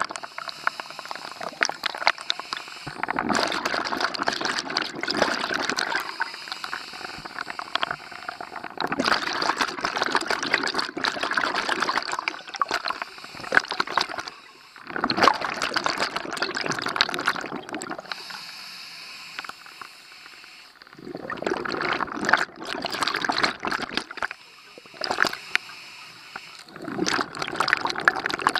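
Scuba diver breathing through a regulator underwater: bursts of exhaled bubbles gurgling past every few seconds, with quieter inhale pauses between.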